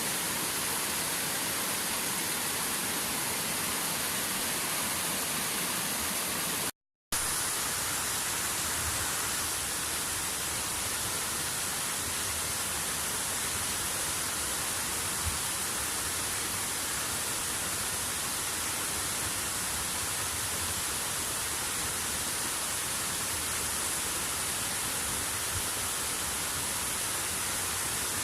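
Waterfall pouring into its plunge pool: a steady, unbroken rush of falling water. The sound cuts out completely for a moment about seven seconds in, then resumes unchanged.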